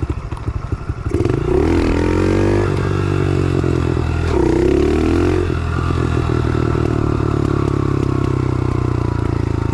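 110cc pit bike's single-cylinder four-stroke engine idling, then pulling away about a second in, revving up twice in rising pulls before settling into a steady run.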